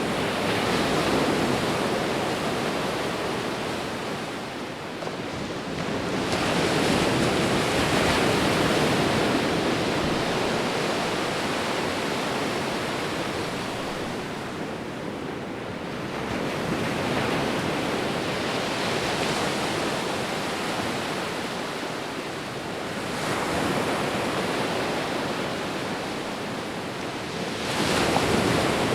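Sea waves breaking and washing ashore, a steady rush of surf that swells with each wave roughly every six to ten seconds and ebbs in between.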